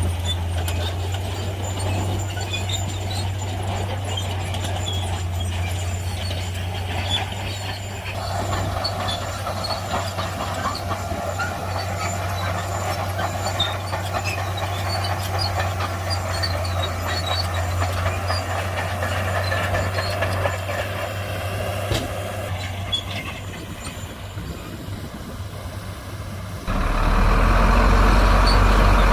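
Shantui heavy bulldozer's diesel engine running steadily under work, with scattered light clinks. About two seconds before the end the sound suddenly becomes louder and deeper.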